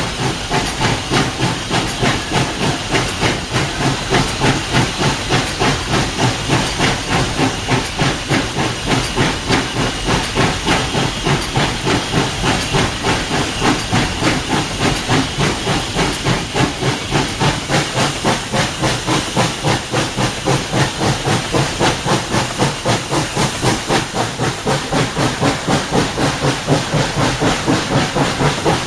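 Narrow-gauge 4-6-0 steam locomotive No. 12 working steadily, heard from the cab: regular exhaust chuffs about three a second over a constant steam hiss.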